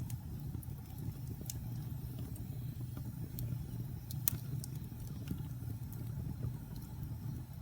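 Wood fire burning in a fireplace: a steady low rumble of flames with scattered sharp crackles and pops from the logs, the loudest pop a little past halfway.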